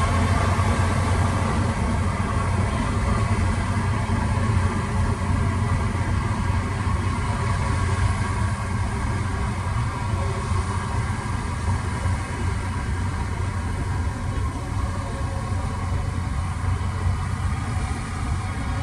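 Heavy diesel engine of construction machinery running steadily with a low, even hum.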